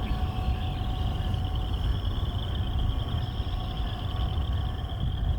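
Steady low rumble of an approaching freight train's diesel locomotives, with faint steady tones above it and a continuous high-pitched chorus in the background.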